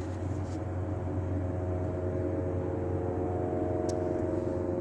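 Car idling, heard as a steady low hum with a few constant tones over it, and a single faint click about four seconds in.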